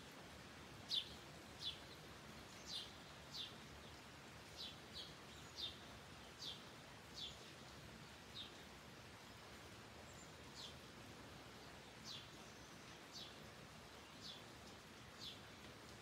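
A small songbird repeating short, high chirps that drop in pitch, about one a second, louder in the first few seconds, over a faint steady hiss of light rain.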